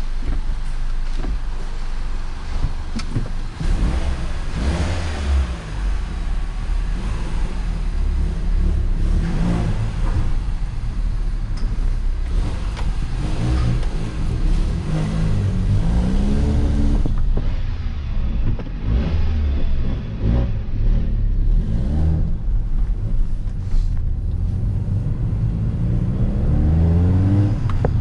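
MINI Cooper's engine heard from inside the cabin, pulling away and accelerating, its revs climbing several times as it goes up through the gears.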